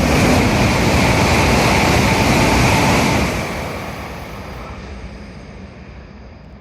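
Sanyo Shinkansen bullet train passing through a station at high speed without stopping: a loud rushing roar for about three seconds, which then fades away as the train recedes.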